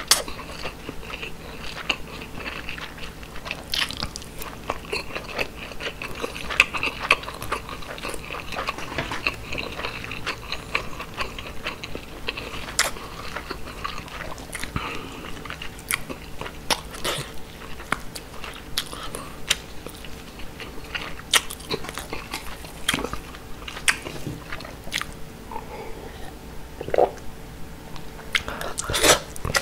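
Close-miked chewing of grilled mackerel and rice, with wet mouth sounds and many small clicks and smacks. Near the end, swallowing from a glass of water.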